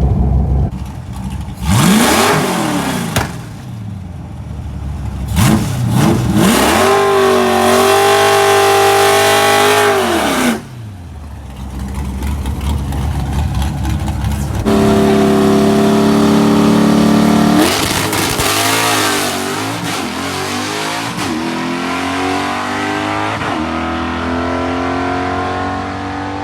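Carbureted 5.0 Ford V8 with door-dumped exhaust, revved in two quick blips and then held at steady high revs twice for a few seconds each. The car then accelerates hard, the revs climbing and dropping at several gear changes.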